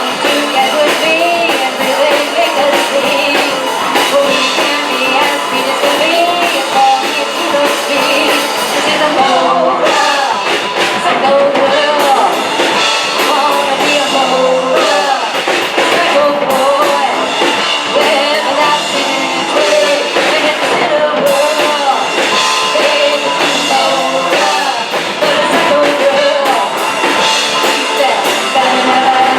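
Live rock band playing a song, with a lead vocal over electric guitar and drum kit.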